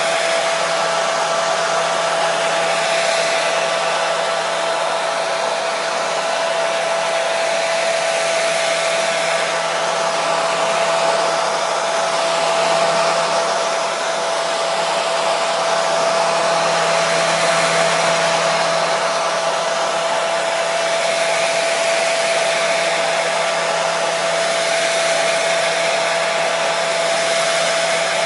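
Hair dryer running continuously at one setting: an even rush of air with a steady motor whine on top.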